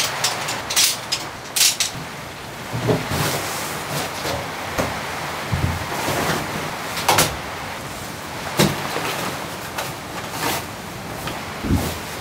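Heavy rain falling steadily on the cabin roof, with scattered clicks and knocks of camping gear being handled, a folding camp chair's poles fitted together near the start.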